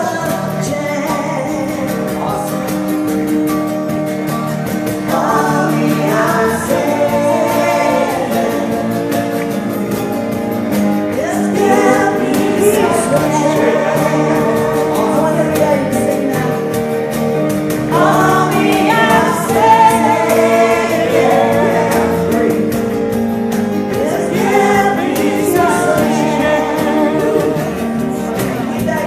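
Live folk-rock band with several voices singing together in choir-like harmony over guitar accompaniment, the voices holding long notes.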